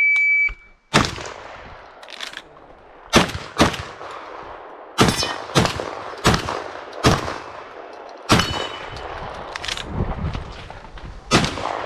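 An electronic shot-timer beep, then a run of 12-gauge semi-automatic shotgun shots, about eleven in all. The shots come in quick pairs and clusters separated by pauses of a second or more, each with an echoing tail.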